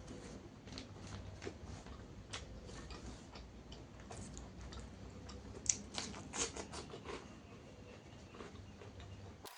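Close-up eating sounds: a person chewing food with irregular crisp clicks and crunches, a dense run of them about six to seven seconds in, over a low steady hum.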